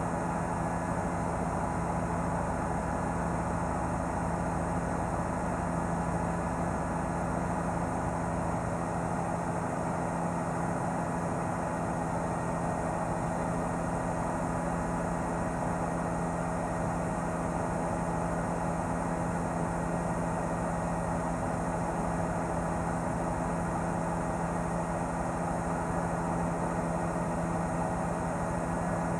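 Steady engine and rotor drone of a news helicopter, a constant hum with several held tones and no change in level.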